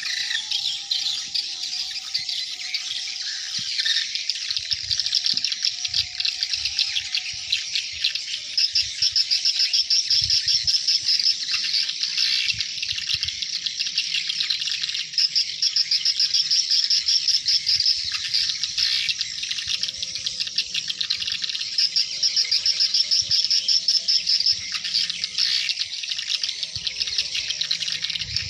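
Dense, continuous high-pitched twittering of a large flock of swiftlets gathering at their nest site, in fast pulsing runs that grow louder and more rhythmic at times.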